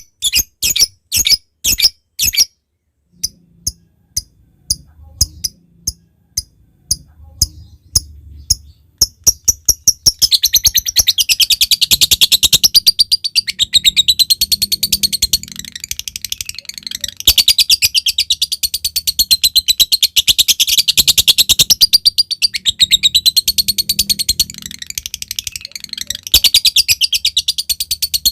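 Lovebird calling in the 'ngetik lanjut ngekek' pattern: a run of short, sharp chips that come faster and faster, then about ten seconds in a long, rapid, high-pitched chattering trill (ngekek) that runs on with two brief breaks.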